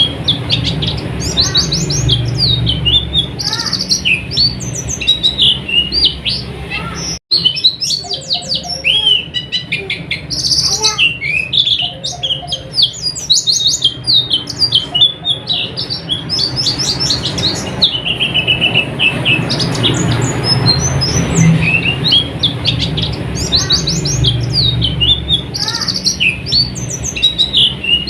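White-eyes (pleci) singing a fast, high twittering song of rapid chirps and short trills, with a steady low hum beneath. The sound drops out for an instant about seven seconds in.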